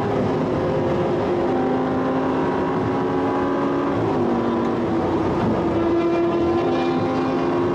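Audi R8's engine running hard at high highway speed, heard from inside the cabin over tyre and wind rush; its steady note shifts in pitch a few times as the throttle changes.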